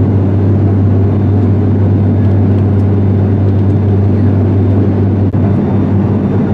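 Steady drone of an ATR 72-500's Pratt & Whitney PW127 turboprop engines and propellers in flight: a constant deep hum under an even rushing noise.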